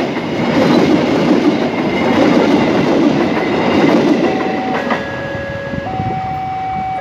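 Passenger train coaches running past over the rails, the rumble fading about four seconds in as the last car clears the level crossing. Then the crossing's warning alarm sounds alone, two steady tones alternating high and low about once a second.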